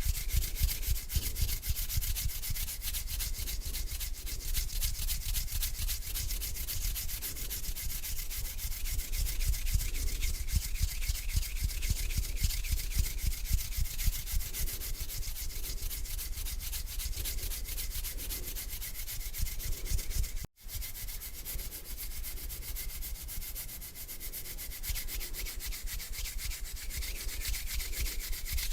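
Hands rubbing together slowly, skin brushing against skin in repeated strokes, with a split-second break about twenty seconds in.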